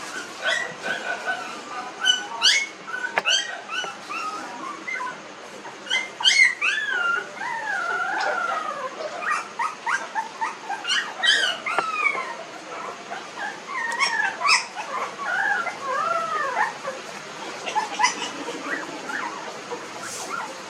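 Very young Pomeranian puppies whimpering and squealing: many short, high calls that bend up and down in pitch, several overlapping.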